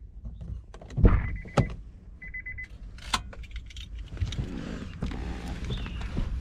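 Clicks and knocks with a loud thump about a second in, and two short runs of fast, high electronic beeping; a steady low rumbling noise follows in the second half.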